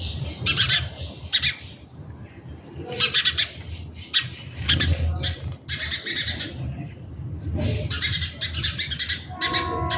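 Small birds chirping in rapid, busy bursts every second or two, with a steady low rumble underneath; near the end a held tone at two pitches begins.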